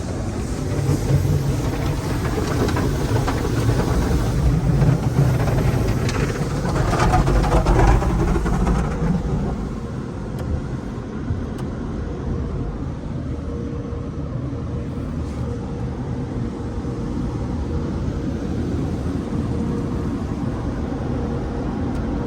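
Hodge/AVW car wash tunnel equipment running around the car: a dense wash-and-machinery noise, louder for the first nine seconds or so, then settling to a steadier, quieter noise with a faint steady hum.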